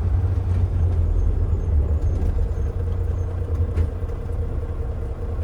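Tractor-trailer's engine and road noise while driving, a steady low rumble with a faint even hum above it.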